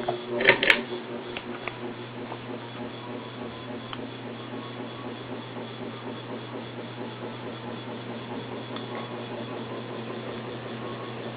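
Ceiling fan running with a steady hum, with a couple of sharp clicks about half a second in.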